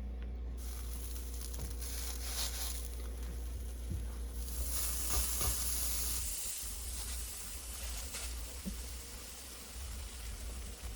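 Garlic-buttered burger buns sizzling cut-side down on a hot griddle as they toast. The sizzle grows louder about four seconds in, over a low steady hum.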